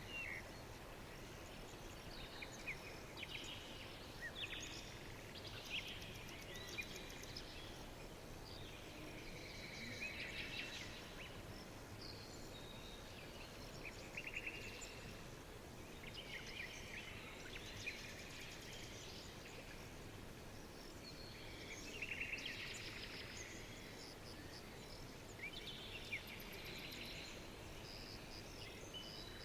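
Several songbirds chirping and trilling in short phrases, one after another, over a steady soft background hiss.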